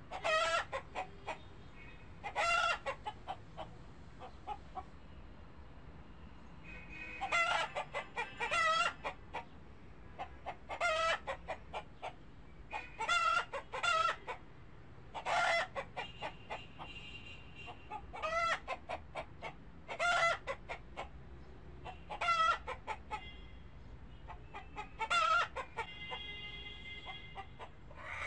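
Chickens clucking in short bursts of rapid calls, one burst every one to two seconds.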